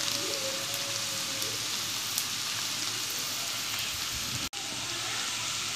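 Sliced bitter gourd (karela) sizzling steadily as it fries lightly in ghee in a pan. The sizzle cuts out for an instant about four and a half seconds in.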